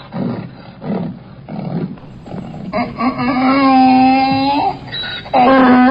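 Donkey braying: a few short, fainter rasping breaths, then one long held note about halfway through, and another loud note starting near the end.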